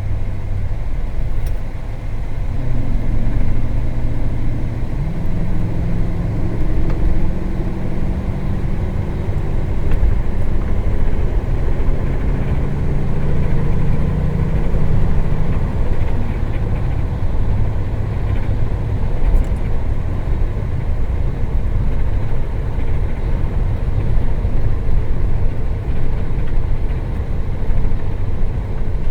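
Isuzu refrigerated box truck on the move, heard from inside the cab: steady engine and road rumble. The engine note climbs in steps through about the first half as the truck picks up speed, then holds steady.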